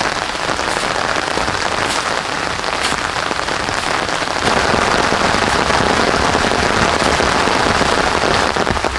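Heavy rain falling steadily on jungle foliage, a dense even hiss with scattered drop impacts, growing a little louder about halfway through.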